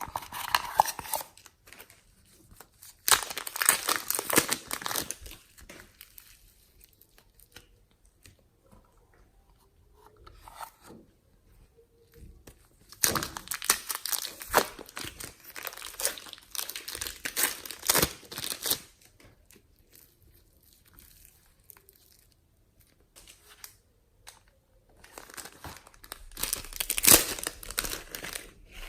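Hands squishing and stretching slime, giving bursts of dense rapid clicking and popping that last a few seconds each, the longest about six seconds, with quieter handling between.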